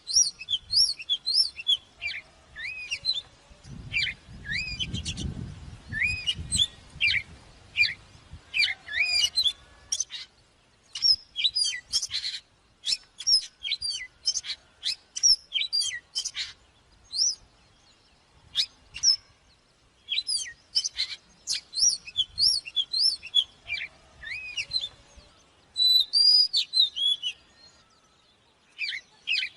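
Oriental magpie-robin singing: fast runs of varied clear whistles, rising and falling slurs and chirps, in phrases with short pauses between them.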